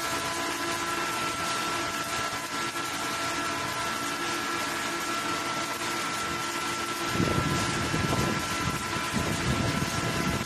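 Steady hiss of pipe arc welding over the even whine and hum of the welding machine. A low rumble joins about seven seconds in.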